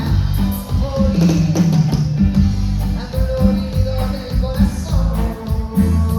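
Live cumbia band music: a sung vocal line over bass, drums and percussion.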